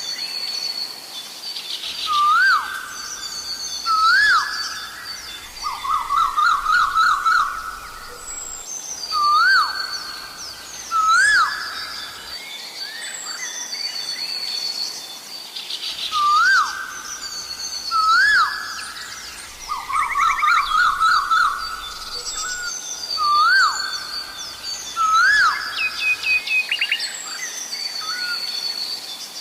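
Asian koel calling its rising two-note "ko-el" over and over, often in pairs, every couple of seconds, with two fast, climbing runs of notes. Other smaller birds chirp at a higher pitch behind it.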